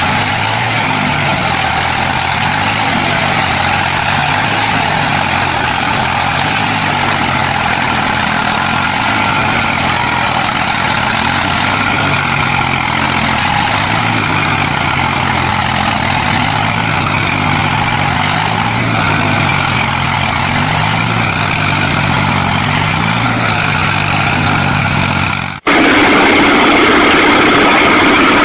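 Tractor diesel engine running steadily and loudly. About 25 seconds in, it cuts abruptly to another engine running louder, with a steadier, higher tone.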